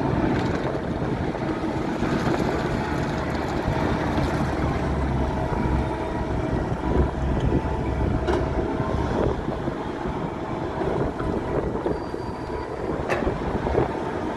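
Diesel engine of a heavy earthmoving machine running steadily, with a few short sharp clanks and wind buffeting the microphone.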